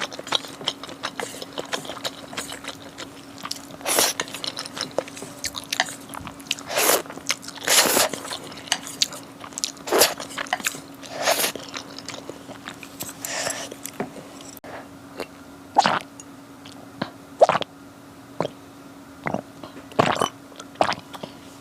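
Close-miked eating: irregular biting and chewing with short, crisp clicks and wet smacks, a few a second, some louder than others. A faint steady hum lies underneath.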